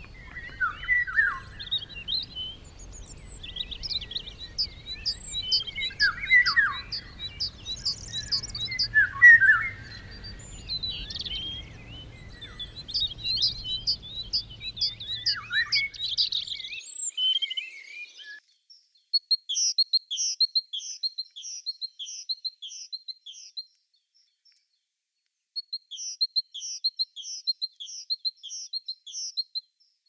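Several songbirds singing and chirping at once over a faint low rumble. Just past halfway the rumble stops, and one bird sings two long runs of repeated high notes, about two a second, with a short pause between them.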